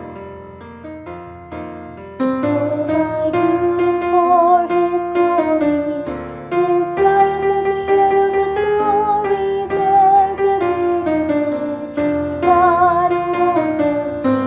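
Piano accompaniment alone, then about two seconds in a female mezzo-soprano voice enters singing a hymn line over it, holding long notes with vibrato.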